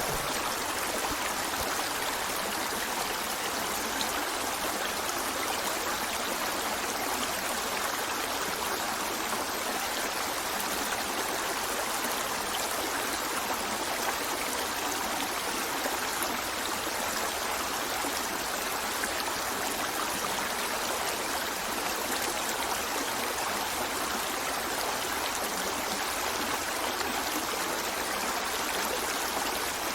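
River water flowing steadily over rocks, an even rushing and trickling.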